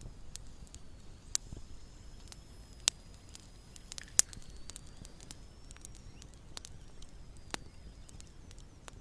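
Small campfire crackling: irregular sharp pops and snaps over a low hiss, with a few louder pops about one and a half, three and four seconds in.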